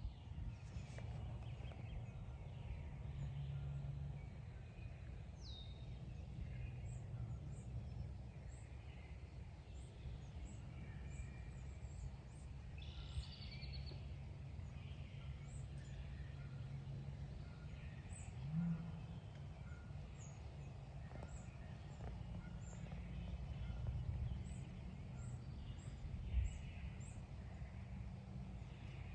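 Outdoor field ambience: a steady low rumble, with small birds chirping high and short, over and over. A few fainter calls come through in the background.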